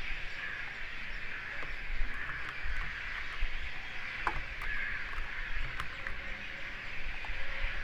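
Steady background hiss with low rumble, a few faint ticks, and one short rising chirp about four seconds in.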